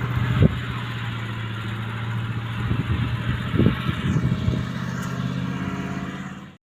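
A motor vehicle's engine running steadily, with a few dull knocks. It cuts off suddenly near the end.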